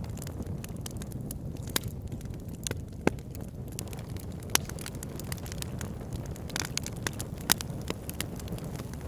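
Wood fire burning in a fireplace: a steady low rumble of flames with irregular sharp crackles and pops, a few of them louder than the rest.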